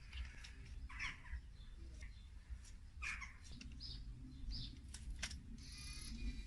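Birds chirping, short calls about once a second or two, over a faint low rumble.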